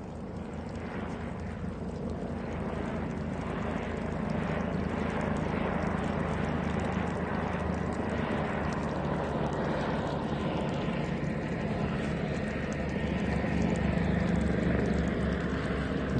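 Helicopter rotor and engine running steadily, slowly growing louder as it approaches.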